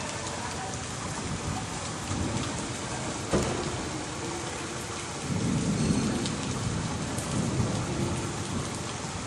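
Hailstorm: heavy rain and hail hitting the ground in a steady dense patter, with one sharp crack about three seconds in and a low rumble of thunder from about five seconds in.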